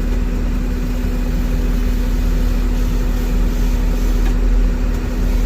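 John Deere 333 compact track loader's diesel engine running steadily at low speed, with a constant low hum and a steady mid-pitched drone.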